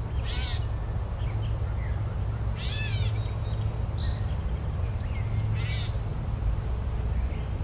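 Bird calls: three bursts of quickly repeated calls, each call sweeping down in pitch, with scattered chirps and a fast trill near the middle, over a steady low rumble.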